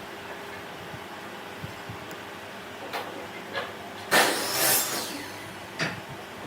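Woodworking handling sounds: a few light knocks, then a loud scraping sound about a second long about four seconds in, and one more knock, over a faint steady hum.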